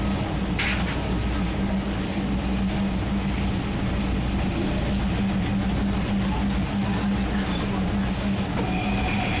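Train engine running steadily, a constant low hum over a bed of noise.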